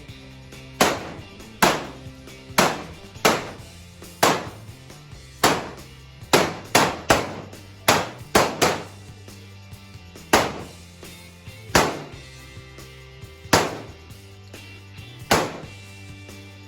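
Gunshots at a shooting range: about seventeen sharp reports, each with a short echoing tail, at uneven intervals and bunched closer together around the middle. Background music plays steadily underneath.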